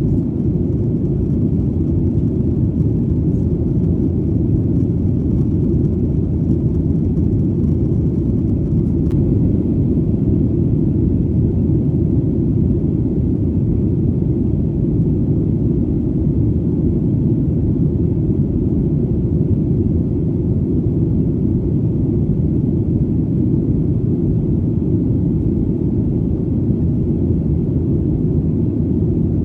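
Steady, deep rumble of an airplane in flight, low and even with no change.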